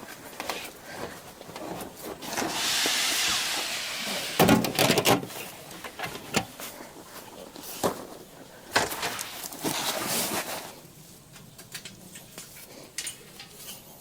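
Tent fabric and camping gear being handled: a rustle lasting about two seconds, then a few knocks and clicks, and another stretch of rustling halfway through.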